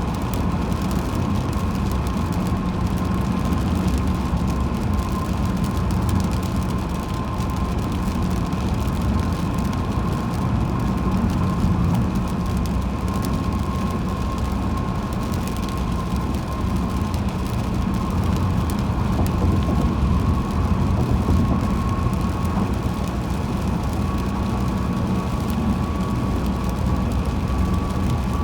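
A car driving on a highway: steady road and tyre noise with a thin, steady whine that rises slightly in pitch near the end.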